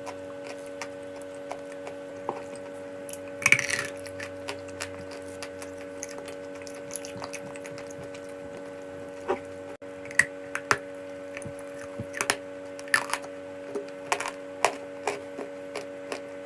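Dry chalk crunching in sharp, irregular snaps, the loudest a longer crumbling crunch about three and a half seconds in and several more close together after about nine seconds. A steady hum runs underneath.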